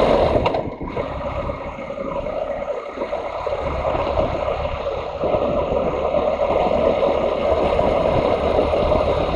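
Motorcycle riding along, its engine and a steady rush of wind on the microphone.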